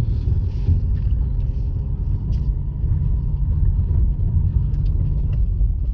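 Steady low rumble of a Honda Fit driving slowly on a snow-covered road: tyre and engine noise.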